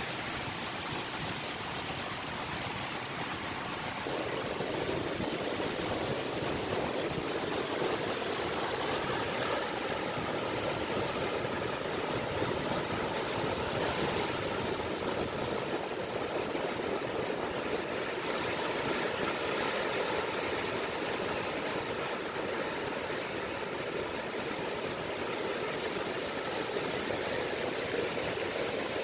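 Small waves washing steadily on the shore of the Seto Inland Sea, a continuous rushing of water that grows a little fuller a few seconds in. A faint steady hum sits underneath through the middle.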